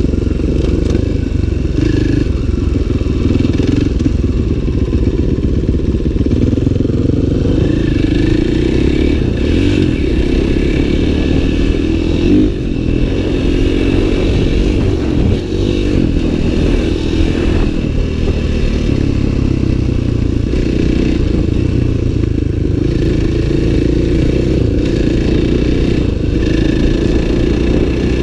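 Dirt bike engine running steadily as the bike is ridden, with brief dips about 12 and 15 seconds in.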